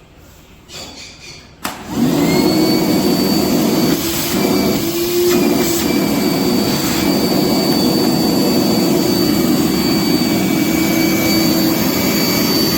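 DEWALT 20V MAX wet/dry shop vacuum (DCV581H) switched on with a click about two seconds in. Its motor spins up, then runs steadily with a whine.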